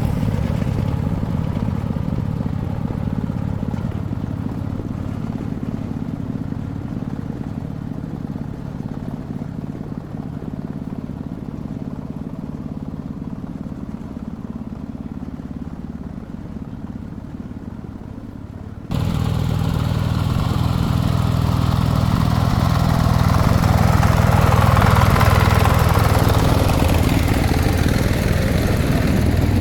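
Small single-cylinder diesel engine of a công nông farm vehicle running steadily. About two-thirds of the way through, the sound cuts abruptly to a louder, fuller run of the engine.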